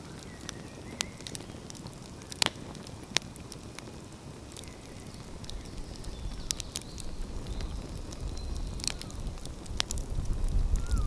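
Outdoor wood fire crackling, with scattered sharp pops. Underneath, a low rumble builds from about halfway through and grows louder toward the end.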